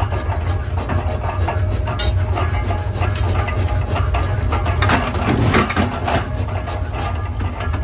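Forging-shop machinery running with a steady low hum, under a constant scraping and rattling of metal parts, which grows louder about five seconds in.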